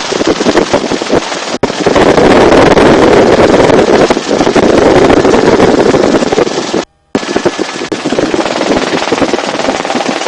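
Belt-fed machine gun firing long, rapid bursts from the open door of a helicopter in flight, with wind and rotor noise behind it. The sound cuts out for a moment about seven seconds in.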